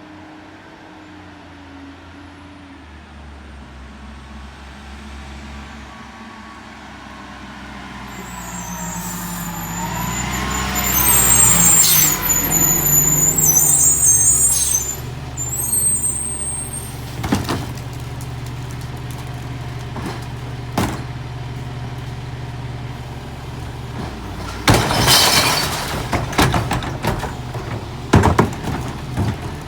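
Peterbilt garbage truck with a McNeilus rear-loader body, its diesel engine growing louder as it pulls up, then air brakes squealing and hissing as it stops. It then idles with a few sharp knocks, and a loud burst of air hiss comes about 25 seconds in.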